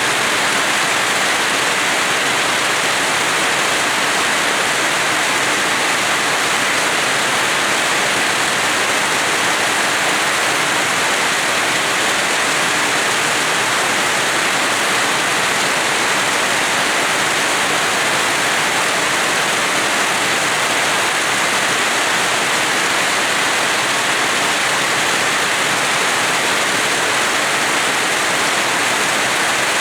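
Steady rain falling, an even, unbroken hiss with no thunder or separate drips standing out.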